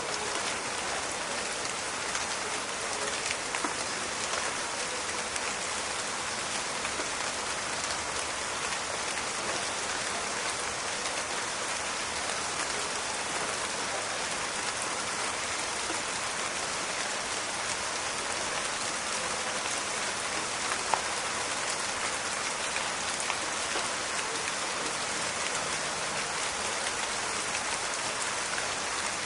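Steady rain falling on forest foliage, an even hiss dotted with fine crackling patter of drops, with one louder drop or click about 21 seconds in.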